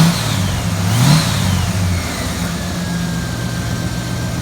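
Car engine revved twice in quick succession, the pitch rising and falling each time, then settling to a steady idle.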